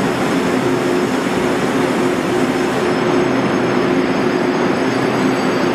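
Taiwan Railways passenger train with orange-striped coaches rolling along a station platform: a steady, loud run of wheel and carriage noise with a low hum held underneath.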